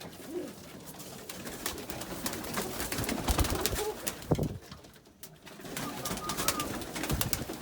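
Domestic pigeons cooing, with many scattered sharp taps and scuffles from the birds moving about in the loft.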